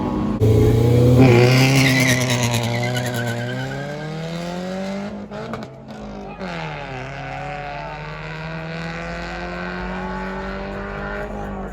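Car engine accelerating hard: its note climbs steadily, drops briefly about six seconds in as it shifts up, then climbs again, growing fainter as the car pulls away. A tire squeal is heard over the launch in the first couple of seconds.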